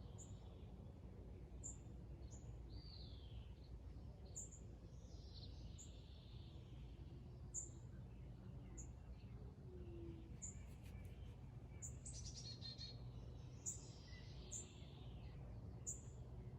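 Wild birds singing and calling: short high chirps repeating about every second and a half, with a few descending whistled phrases. A steady low rumble sits underneath.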